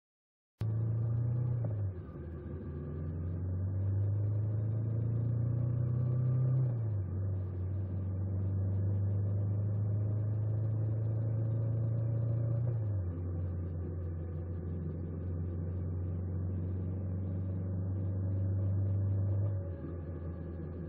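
Honda 400X's parallel-twin engine running under way. Its pitch climbs slowly, then drops suddenly about 2, 7 and 13 seconds in, as when shifting up through the gears, with a further drop near the end.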